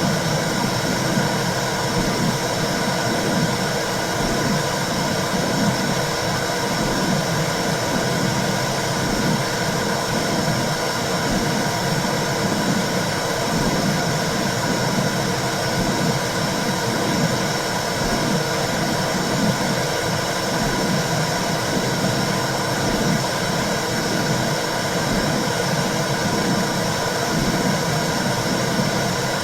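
Womb sound for soothing a baby: a steady rushing hiss with a regular low pulse repeating about once a second.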